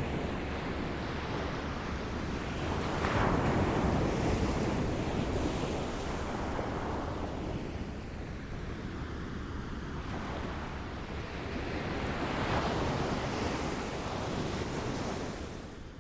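Small waves lapping in a steady wash of water, swelling louder twice, about three seconds in and again about three-quarters of the way through.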